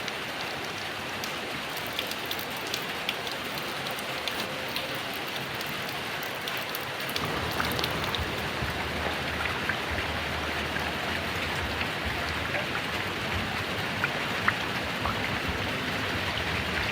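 Heavy rain falling steadily, with many separate drop impacts ticking through the steady patter. A low rumble joins about halfway through.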